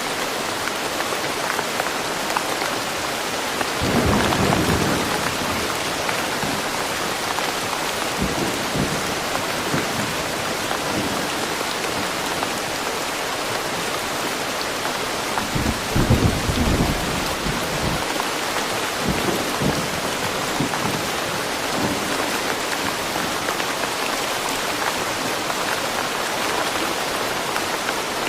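Steady rain falling, with low rolls of thunder rumbling about four seconds in and again, louder, around sixteen seconds in.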